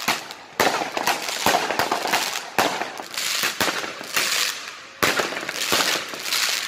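Aerial fireworks bursting overhead in a rapid, uneven string of bangs, roughly two a second, with a dense crackle filling the gaps between them.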